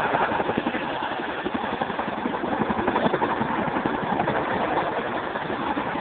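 Boeing Chinook tandem-rotor helicopter flying a display, heard as a steady, loud rush of rotor and turbine noise.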